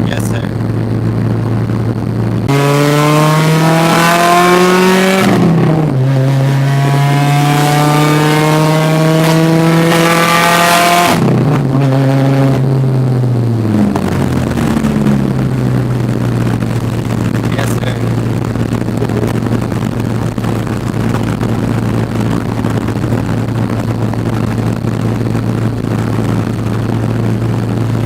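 A car engine accelerating hard: its note climbs for a couple of seconds, drops at a gear change about five seconds in, then pulls up again in a longer climb before falling away and fading. A steady low drone runs underneath throughout.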